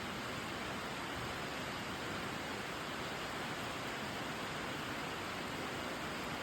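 Steady rain drumming on a tin roof: an even, unbroken hiss of drops on the metal sheeting.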